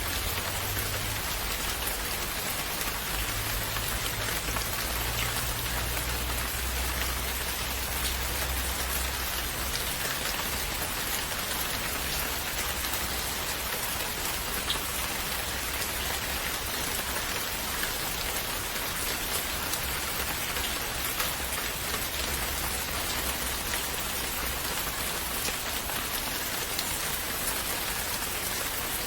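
Steady rain falling on a surface, an even hiss with scattered individual drop ticks; a low rumble sits under it for the first ten seconds or so.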